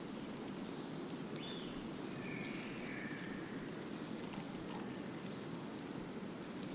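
Steady wind rustling through branches, with faint bird calls about one and a half to three seconds in and scattered light ticks.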